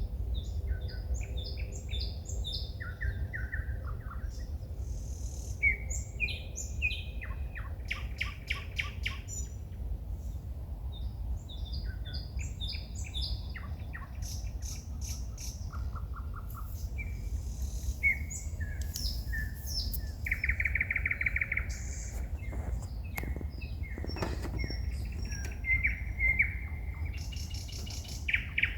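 Songbirds singing at night in a continuous stream of varied phrases: short whistles, fast trills and rapid clicking runs. A low steady rumble lies underneath.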